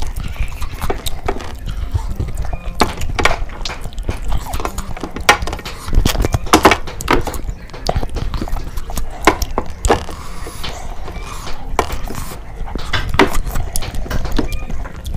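Close-miked eating: wet chewing, lip-smacking and irregular mouth clicks as meat is bitten off a bone and chewed.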